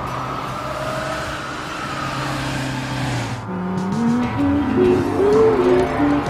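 A vehicle engine running, its pitch gliding slowly up and down. It cuts off suddenly about three and a half seconds in, and a tune of stepped notes takes over.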